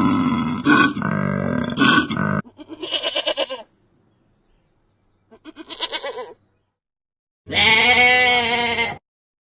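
A series of animal calls: a loud, dense grunting call at first, then two short quavering bleats and one longer bleat near the end, with silent gaps between them.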